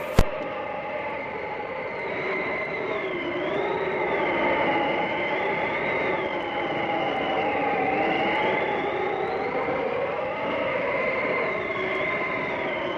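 Blizzard wind howling: several whistling tones slowly waver up and down in pitch over a steady rushing noise. A single sharp click sounds right at the start.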